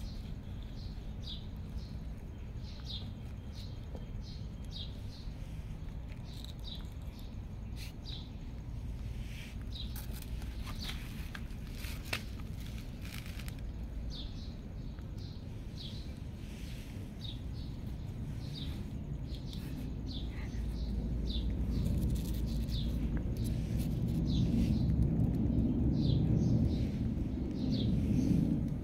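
Small birds chirping repeatedly, short high chirps about once a second, with a few sharp clicks near the middle. A low rumble builds up over the last several seconds.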